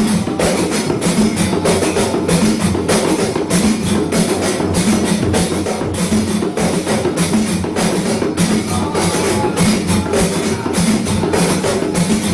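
Javanese terbang frame drums (rebana) played by an ensemble in a fast, steady rhythm of repeated strikes.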